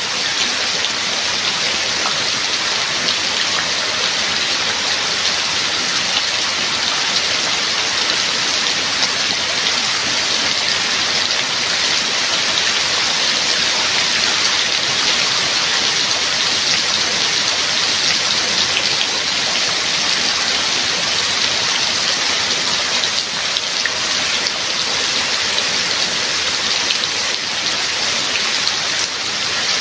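Steady rainfall, an even hiss of drops on surfaces with no break or change in strength.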